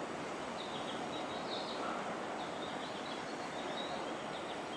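Steady hum and hiss of a Seibu 9000 series electric train standing at a station platform, with faint, short bird-like chirps repeating over it.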